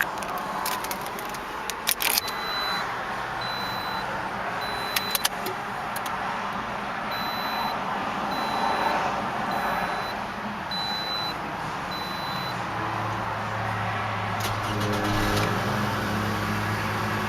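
Clicks, then a car's warning chime beeping about once a second for roughly ten seconds. About fourteen seconds in, the 2009 Scion xB's 2.4-litre four-cylinder engine starts and settles into a quiet, steady idle.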